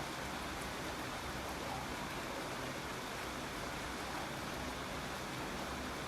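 Steady rain falling, an even wash of noise with no distinct drops standing out.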